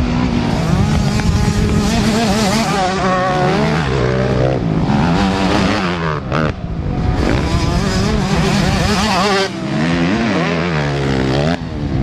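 Several MX2 motocross bikes racing, their engines revving up and dropping back over and over as the riders shift gears and throttle through the track.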